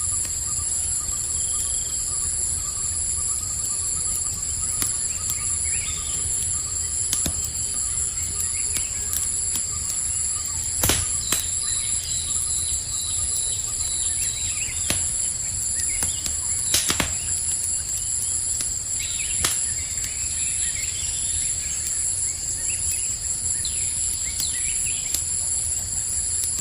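Campfire crackling with a low rumble of flames and a few sharp pops, under a steady, high, pulsing chorus of night crickets, with faint bird chirps.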